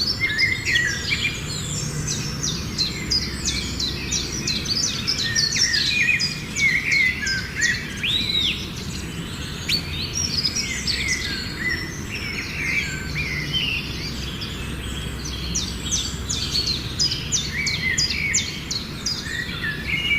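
Several small birds calling and singing at once, a busy chorus of quick chirps and sharp downward-sweeping notes, over a steady low background rumble.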